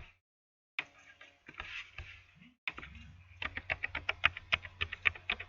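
Typing on a computer keyboard: scattered keystrokes at first, then a quick run of clicks, about six a second, in the second half.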